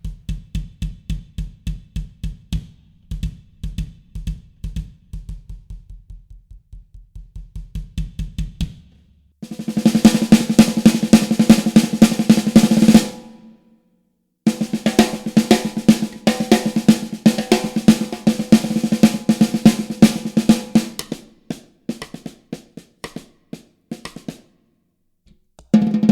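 Drum kit played through close drum mics: a bass drum struck steadily, about four strokes a second, for the first nine seconds or so, then two fast snare drum rolls with a short break between them, the second one trailing off near the end.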